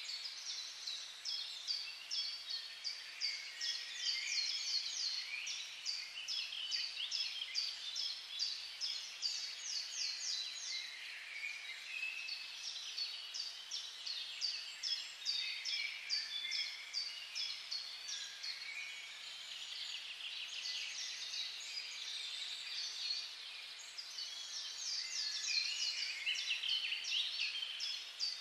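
Small birds chirping: long runs of quick, high, short notes, several a second, overlapping one another.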